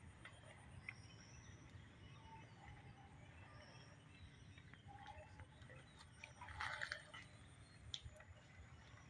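Faint outdoor ambience with short high chirps repeating about every second and a half, and a brief rustle about seven seconds in.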